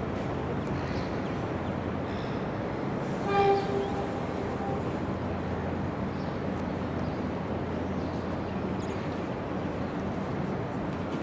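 Steady rumble of a passing train, with one short horn blast about three seconds in that fades away over a second or so.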